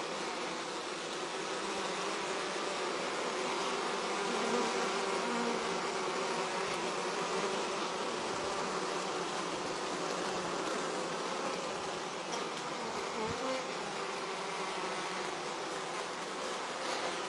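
Honeybees buzzing, many at once, in a steady dense hum.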